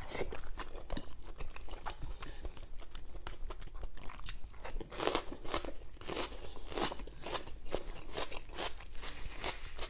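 Close-miked mouth sounds of someone chewing and biting soft, fatty braised pork belly: irregular smacks and clicks, several a second.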